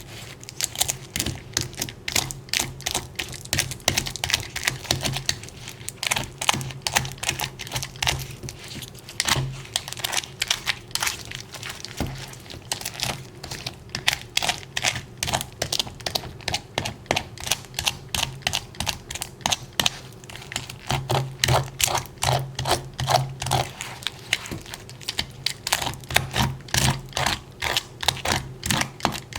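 Rapid, irregular small clicks and crinkles, several a second, over a low steady hum.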